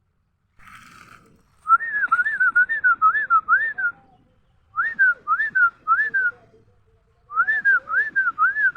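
A clear, high whistle in repeated rising-and-falling notes, given in three runs of about four to seven notes with short pauses between them. It is close and loud, and a brief rustling hiss comes just before the first run.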